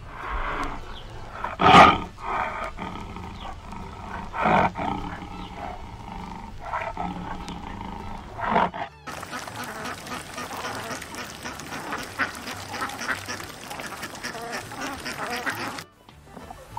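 Ducks quacking in a series of loud calls over the first nine seconds. Then the sound cuts abruptly to a steady noisy hiss with small clicks.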